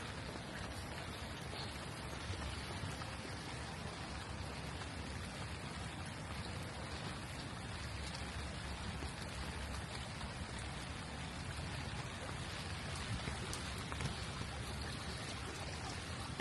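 Steady rain falling on a street: an even hiss of rain with drops hitting the ground.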